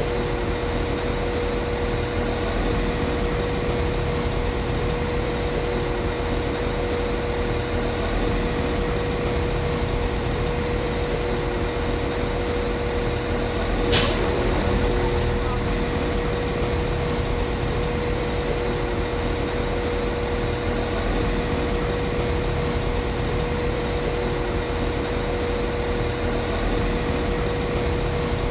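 Class 195 CAF Civity diesel multiple unit's underfloor diesel engine idling steadily, a constant hum with a steady whine over it. About halfway through a sharp click is followed by a short hiss.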